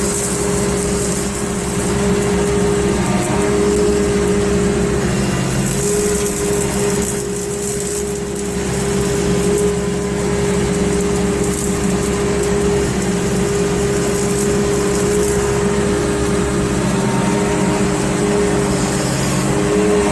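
Takeuchi TB285 mini excavator running with a Blue Diamond rotary cutter spinning on its radial piston hydraulic motor. The steady hum shifts and breaks a few times as the arm and bucket curl are worked: this is the noise the mower makes when those functions are operated.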